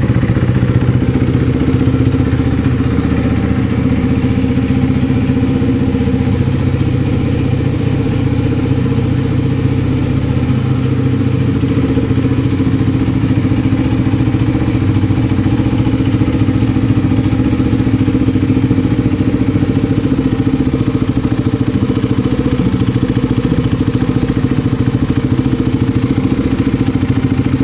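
KTM RC 390's single-cylinder engine idling steadily through a freshly fitted SC Project slip-on exhaust.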